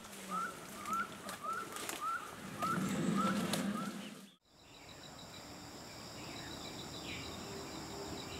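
A bird repeating a short rising chirp about twice a second, eight times over. After a sudden cut, insects take over with a steady high-pitched pulsing drone.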